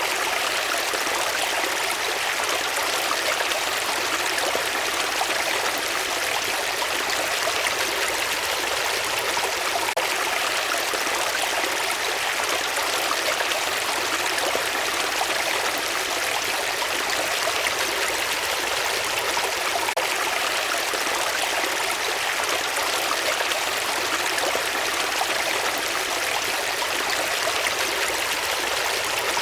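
Running water rushing steadily, an even unbroken sound with no distinct splashes or drips.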